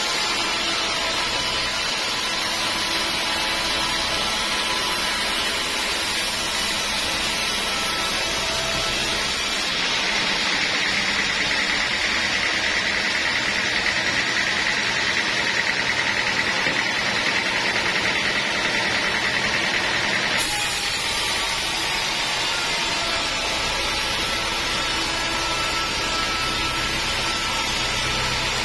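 Sawmill saw running steadily while teak is sawn into planks. About ten seconds in, a louder, higher-pitched stretch of sawing through the wood begins, and it stops abruptly about twenty seconds in.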